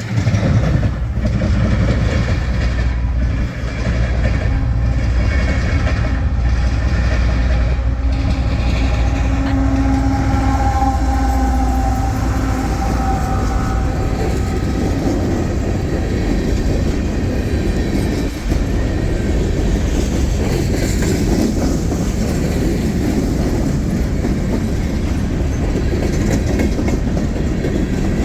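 Freight train passing close by. Diesel locomotive engines rumble for the first twelve seconds or so, then the rail cars roll past with steady wheel noise and clickety-clack over the rail joints.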